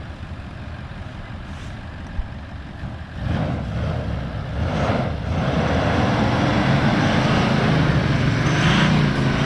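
A 4WD truck's engine running as it gets under way, the rumble growing louder about three seconds in and again from about five and a half seconds on.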